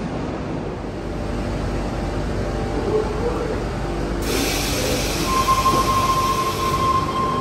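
Sydney Trains double-deck electric train rumbling away into the tunnel from an underground platform. About four seconds in the sound changes abruptly to a train standing at the platform with its doors open, and a second later a steady high tone comes in.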